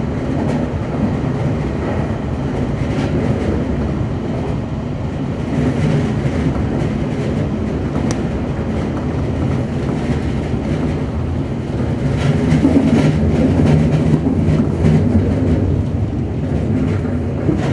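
Semboku 7020 series electric train running, heard from the cab: a steady rumble of wheels on rail under a low hum, getting louder with a run of clacks over rail joints in the last few seconds.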